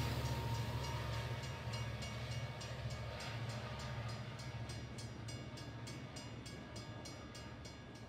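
Train sound effect: a low rumble with a steady clicking rhythm of about four or five beats a second, slowly fading away.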